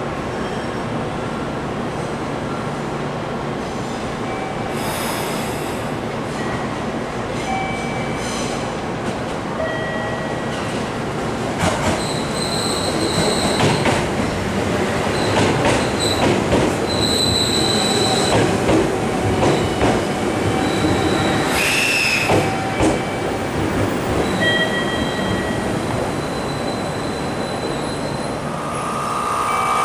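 JR 211 series electric train running slowly into a station platform and drawing to a stop. The running noise grows louder from about a third of the way in, with high-pitched squeals from the wheels and brakes coming and going as it passes and slows.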